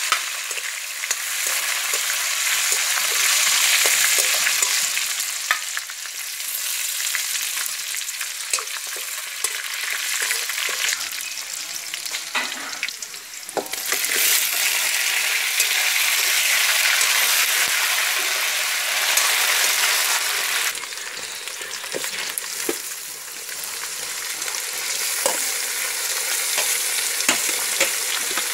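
Hot oil sizzling in a metal wok as onions and spices fry, with a metal spoon stirring and clinking against the pan. About halfway the sizzle drops, then comes back louder as cut potatoes are tipped into the hot oil.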